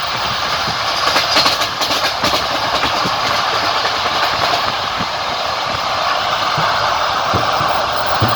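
Passenger train wheels clicking over rail joints over a steady rolling rumble, heard from inside a moving train. A quick run of clicks comes about one to two and a half seconds in.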